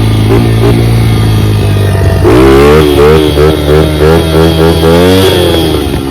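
Dirt bike engine running under throttle. About two seconds in, the revs rise and fall quickly, over and over, for about three seconds, then settle to a steadier note.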